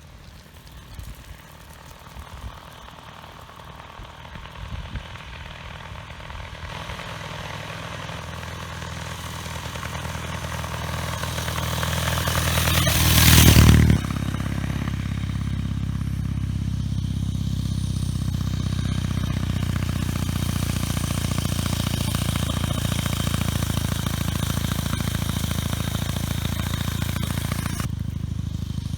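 The flat-twin engine of a 1920 Douglas W 20 2¾ hp motorcycle running. It grows steadily louder over the first dozen seconds and peaks in a brief loud surge about halfway through. It then settles into a steady, even run.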